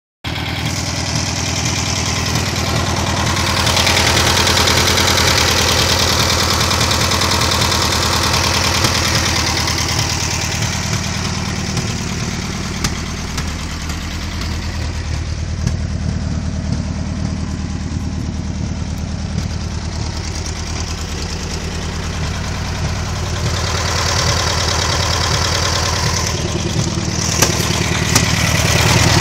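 LuAZ-968's air-cooled V4 engine idling steadily, growing a little louder and quieter in turn.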